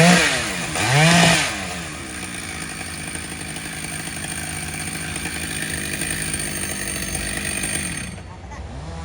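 Chainsaw engine revved twice, its pitch sweeping up and down, then held running steadily at speed; the sound drops and dulls briefly near the end.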